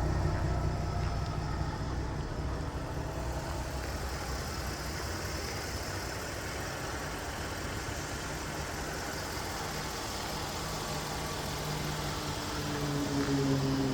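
Jaguar F-Type's supercharged 3.0 V6 engine running: louder at first, settling to a steady lower note, then rising again near the end.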